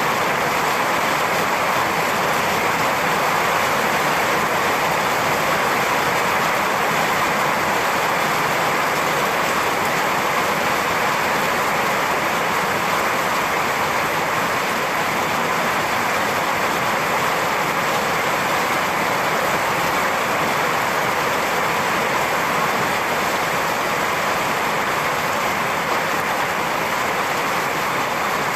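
Steady rain falling, an even hiss with no thunderclaps or changes.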